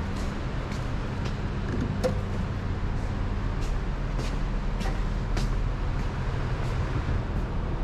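Triumph Speed Triple 1050 RS's inline three-cylinder engine running at a steady engine speed, with no revving, and faint light ticks at irregular intervals.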